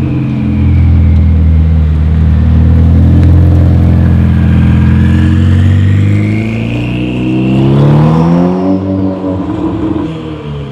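Ferrari engine running loud and steady, then revving up with a rising pitch about seven seconds in before dropping away near the end.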